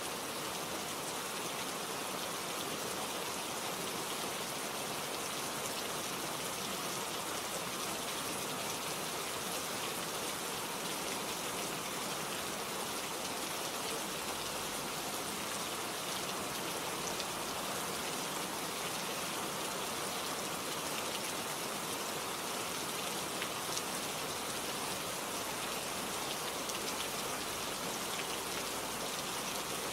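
Steady rain falling, with fine close raindrop patter on leaves and surfaces.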